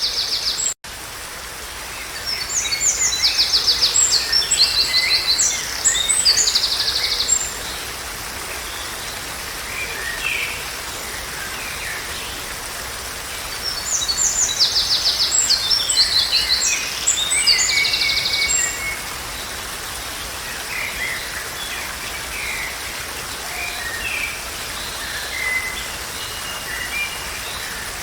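Songbird song: long runs of rapid, high trilled phrases, and the same song comes twice about eleven seconds apart, with softer scattered calls between. Underneath is a steady background hiss of rushing water or rain. The audio drops out for an instant about a second in.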